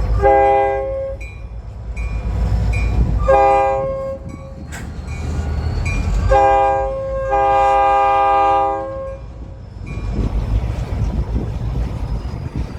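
Diesel locomotive's multi-tone air horn sounding four blasts: two short ones a few seconds apart, then a short blast followed at once by a long one, over the low rumble of the train.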